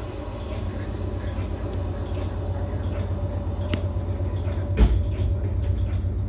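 Steady low hum inside a stationary electric train car as its onboard equipment runs while the train waits at the platform, with a sharp click about three and a half seconds in and a thump near five seconds.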